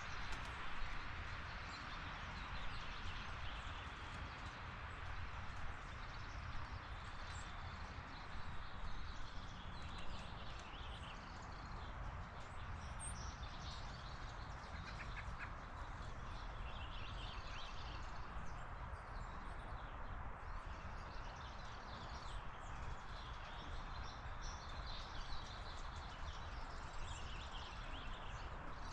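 Steady outdoor background noise with scattered faint chirps and calls of small birds throughout.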